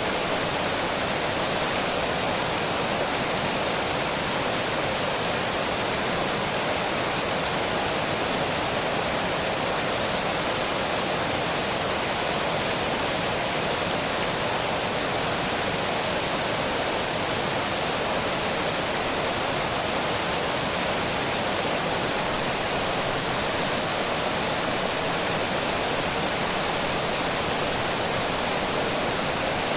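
Water pouring over a small dam: a steady, unbroken rush of falling water.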